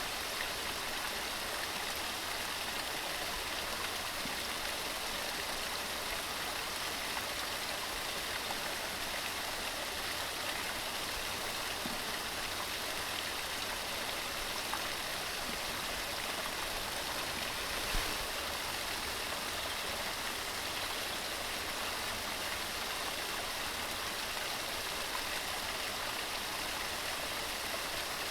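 Waterfall tumbling over mossy rocks: a steady, even rush of falling water, with one slightly louder splash about eighteen seconds in.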